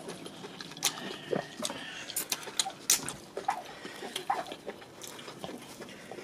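Close-miked eating by hand: irregular wet chewing, lip smacks and mouth clicks from someone eating egusi soup with eba, with soft squishing as a lump of the dough is torn off by hand.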